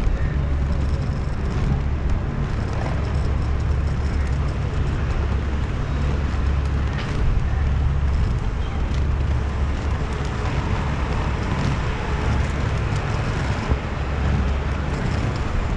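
Inline skate wheels rolling over pavement as a steady low rumble, with brief dips in the deepest part every second or two.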